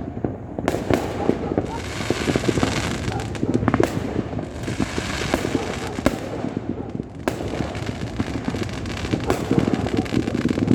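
Many fireworks and firecrackers going off at once, a dense, unbroken run of bangs, pops and crackling.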